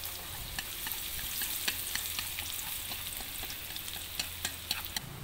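Shallots and garlic sizzling in hot lard in a pan, with many sharp crackles and pops as they are stirred.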